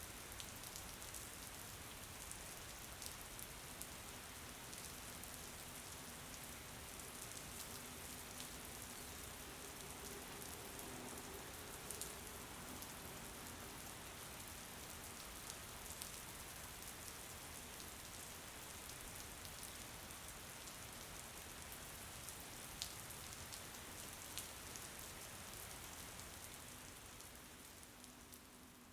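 Steady rain falling, with individual drops ticking now and then; it fades down over the last couple of seconds.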